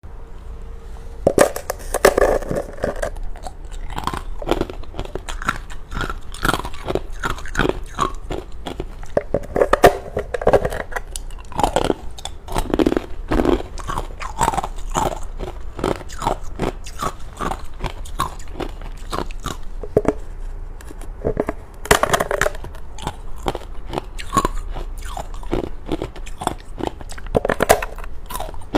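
Close-miked biting and chewing of thin, hollow frozen matcha ice: a steady run of crisp cracks and crunches, with several louder bites along the way.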